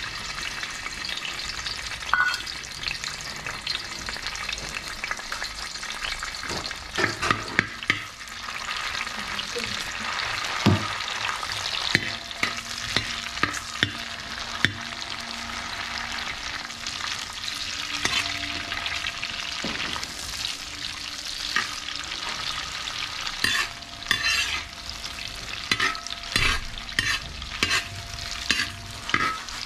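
Cashew nuts and raisins sizzling as they fry in hot ghee in a metal pan, with a metal ladle scraping and clinking against the pan many times as they are stirred. A faint steady hum joins about twelve seconds in.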